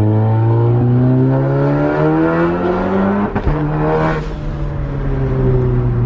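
MK7 Golf R's turbocharged 2.0-litre four-cylinder heard from inside the cabin, accelerating with its note climbing steadily. About three seconds in, the note breaks off with a short crack and comes back lower as it shifts up, then pulls on at a steady pitch.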